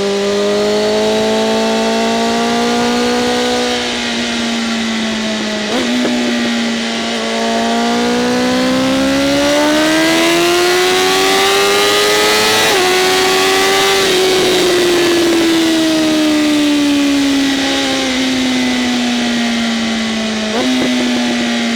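BMW M1000RR inline-four sport-bike engine running through an SC-Project CRT exhaust with its flaps open, pulling through the revs and easing off. Its pitch climbs and falls, with sudden pitch jumps at gear changes about six seconds in, near the middle and near the end.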